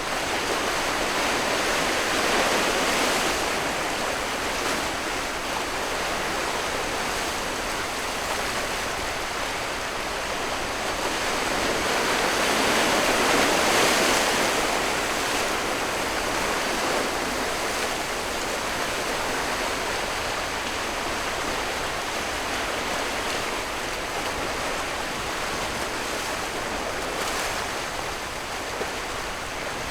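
Sea water washing and rushing, a steady noise that swells about two to three seconds in and again about thirteen to fourteen seconds in.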